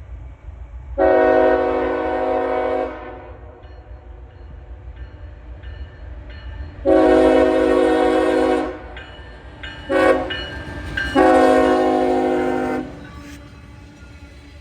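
Locomotive air horn sounding the grade-crossing signal, long, long, short, long: the train is approaching a road crossing. A steady low rumble of the train runs under the blasts.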